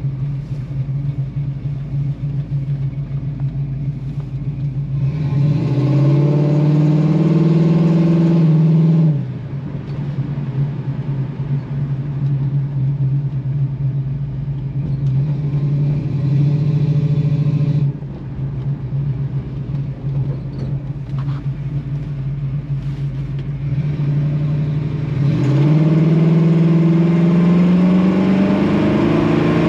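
The 260 V8 of a 1964½ Ford Mustang F-code running through the gears on a test drive. It pulls up in pitch and loudness from about five seconds in, drops suddenly at an automatic upshift about four seconds later, and pulls up again near the end. The engine has a mild, not super aggressive, lope that suggests a small performance cam.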